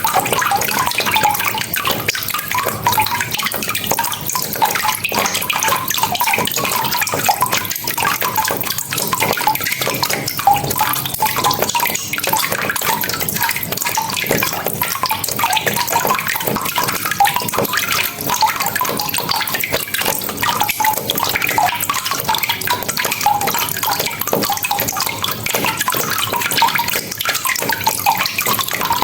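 Steady rain falling: a dense, even patter of many drops that keeps on without a break.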